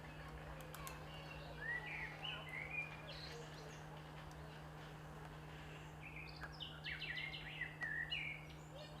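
Small birds chirping in two short bouts of quick whistled notes, one about two seconds in and one from about six to eight seconds in, over a steady low hum and background noise.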